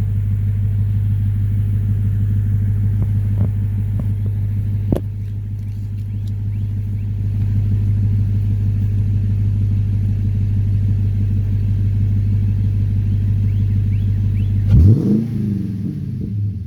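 Car engine idling steadily through a new muffler, with a deep even exhaust note and a few light clicks in the first five seconds. Near the end the engine is blipped once, the pitch rising sharply and falling back.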